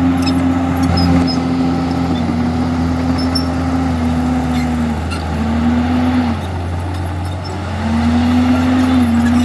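Komatsu D51EX bulldozer's diesel engine running hard and steady. Its pitch sags about halfway through, and the engine note drops away for a second or so before rising back.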